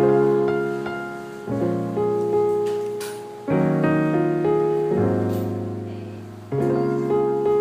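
Solo piano music: slow chords struck every second and a half or so, each left to ring and fade.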